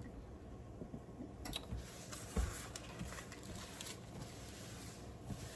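A few faint clicks and light knocks of kitchen things being handled and put away, over a low steady hum.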